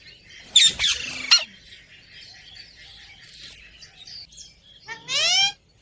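Bird calls: a quick cluster of sharp chirps about half a second in, then a single rising call near the end.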